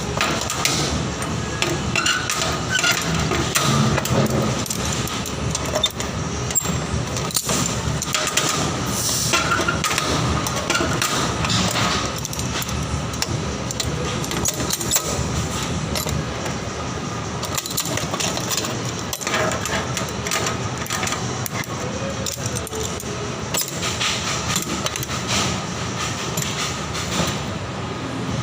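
Metalworking noise: a steady crackling din with frequent sharp metallic knocks throughout.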